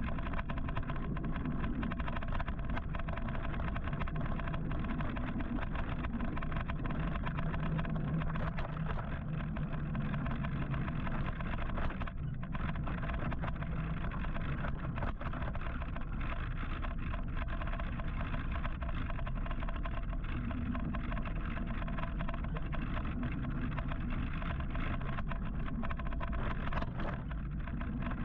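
Steady city traffic and road noise heard from a moving electric motorcycle, with vehicles running all around. It dips briefly about twelve seconds in.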